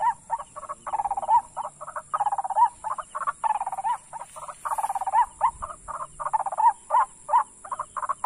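A paddy-field bird's call, a rapid series of short notes repeated about three times a second without a break, over a steady faint high-pitched insect hum.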